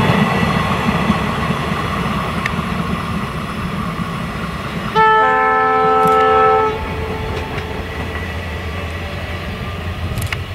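A passenger train's coaches rumbling and clattering over the rails as it runs away, the sound slowly fading. About five seconds in, the locomotive's horn sounds once for under two seconds, a chord of several steady tones.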